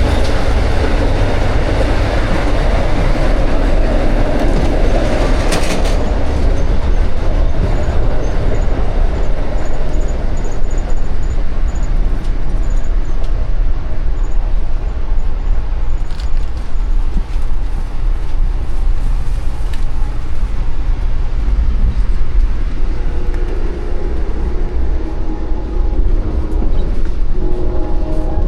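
Passenger train running at speed: a steady, loud low rumble of wheels on the rails and the moving car.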